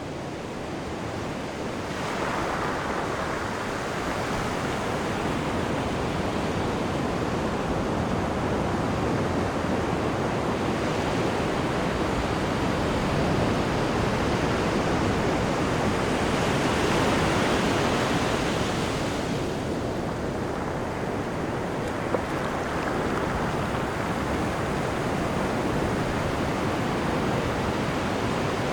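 Rushing, churning water of a cruise ship's wake seen off the stern: a steady wash that swells a little about two seconds in and again a bit past the middle. Wind on the microphone mixes with it, and there is a single faint tick about three quarters of the way through.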